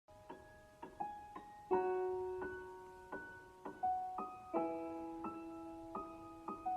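Soft piano music: single notes and chords struck a couple of times a second, each ringing and fading, in a slow gentle melody.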